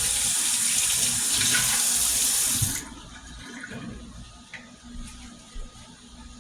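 Kitchen sink tap running water into the sink, then shut off suddenly about three seconds in, leaving a few faint clicks.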